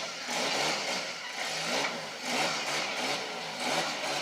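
A vehicle engine running, its pitch rising and falling as it is revved.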